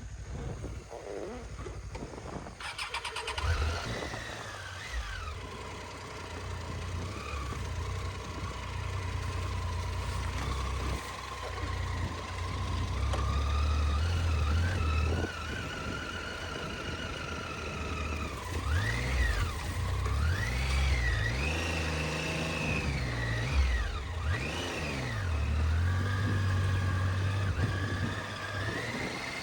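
Motorcycle engine running, with a change in its sound about two and a half seconds in. In the second half it is revved up and down several times, the pitch rising and falling.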